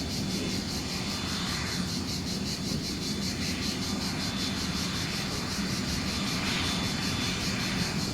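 Cessna Citation CJ3's twin turbofan engines running steadily with a low hum, while insects chirp in a fast, even pulsing.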